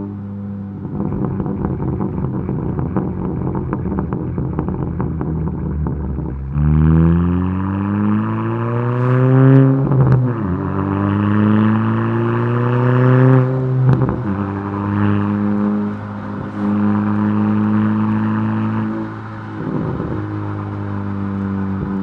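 Honda Civic Si's K20 four-cylinder with a crackle tune. For about six seconds it holds a steady note with a dense run of exhaust crackles. Then it is revved up and let fall several times, popping and crackling each time the revs drop.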